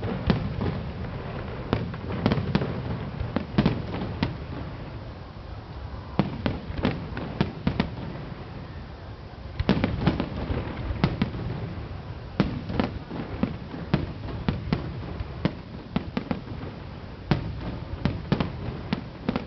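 Aerial fireworks going off: a rapid, irregular series of sharp bangs and cracks over a low rumble. The bangs thin out briefly near the middle, then come thick again.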